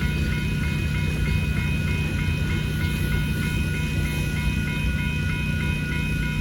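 Freight cars of a manifest train rolling through a grade crossing with a steady low rumble, while the crossing signal bell rings continuously at about three strokes a second.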